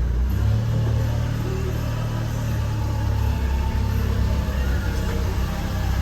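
A 1996 Subaru Sambar kei truck's small engine running steadily. Its note steps up shortly after the start and eases back about halfway through.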